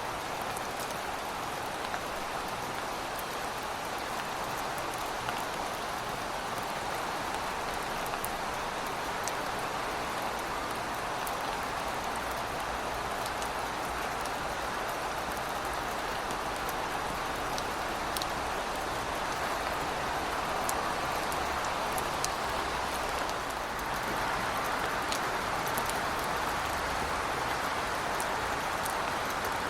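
Heavy rain falling steadily, an even hiss with scattered light drop ticks, swelling slightly a little over halfway through.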